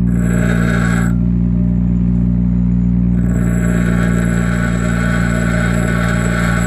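Bench grinder motor running with a steady hum while the steel body of a stump grinder tooth is pressed against the steel grinding wheel, grinding a concave into it. The grinding hiss stops about a second in and starts again about two seconds later.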